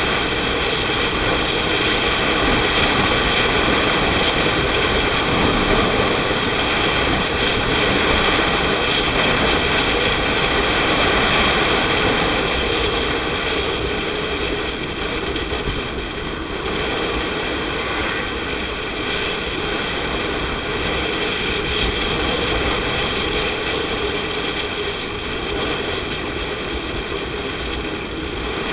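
Motorcycle engine running steadily at cruising speed, its even drone mixed with road and wind rumble.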